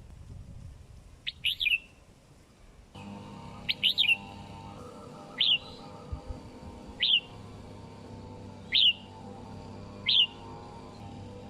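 Red-whiskered bulbul giving short, sharp calls, one about every one and a half seconds, with a quick double call about four seconds in. Background music comes in about three seconds in.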